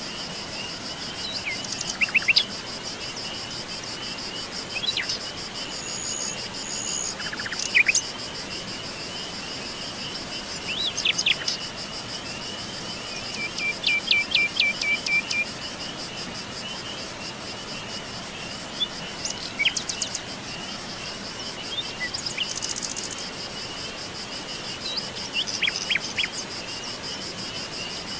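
Forest birds chirping and calling at scattered moments, including a quick run of repeated notes about halfway through, over a steady high trilling of insects and a soft even hiss.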